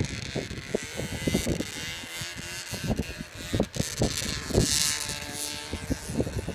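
Arctic Cat ZR 700 snowmobile's two-stroke engine running with a buzz, its pitch steady for a while in the middle, with many irregular low thumps and a rushing hiss over it.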